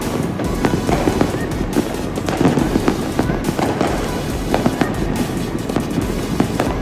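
Fireworks and firecrackers going off without pause: many sharp, overlapping bangs and pops over a dense crackle.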